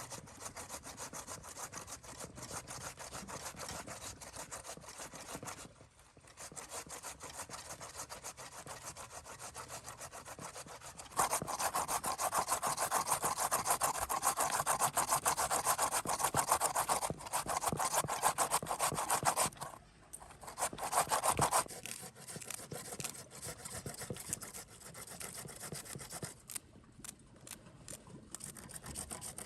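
Rapid, continuous rasping strokes of something being rubbed or scraped, louder for about ten seconds in the middle.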